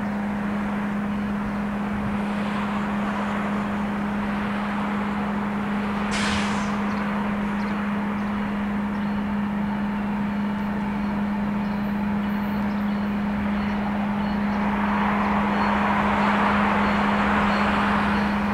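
A train passing with a steady rumble and a constant low hum. There is a brief hiss about six seconds in, and the sound swells a little near the end.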